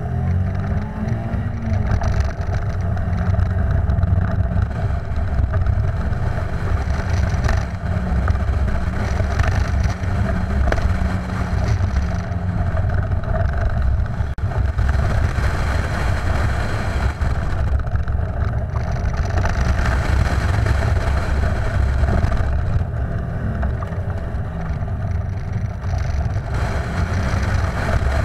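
Car engine pulling hard and easing off through an autocross course, its pitch rising and falling with the throttle, with wind rushing over the microphone and tyre noise.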